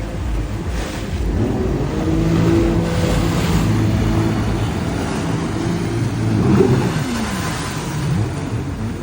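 Jet ski engine running and revving, its pitch swinging up and down about six to seven seconds in.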